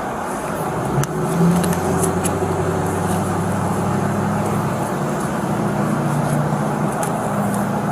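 Motor vehicle engine running steadily, a low hum that sets in about a second in, with a few light clicks.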